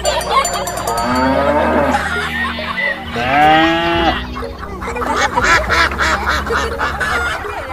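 Animal calls, several overlapping and bending in pitch, over a steady low hum that drops out briefly partway through.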